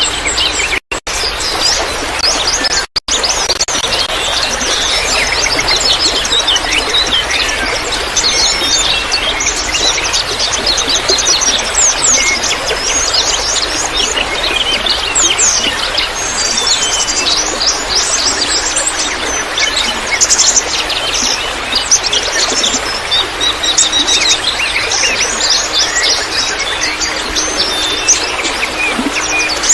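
Many small songbirds chirping and twittering densely over a steady trickle of water. The sound cuts out briefly twice, about one and three seconds in.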